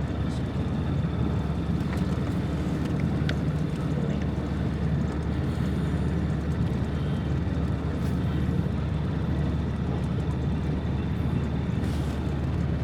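Pontoon boat's motor running steadily at trolling speed, an even low drone that does not change.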